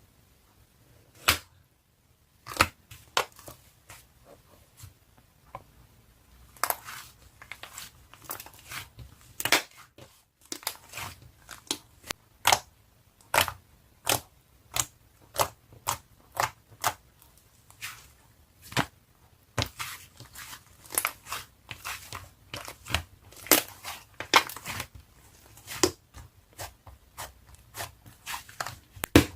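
Slime being squeezed and folded by hand, giving irregular sharp pops and clicks, several a second after a quiet first second or so.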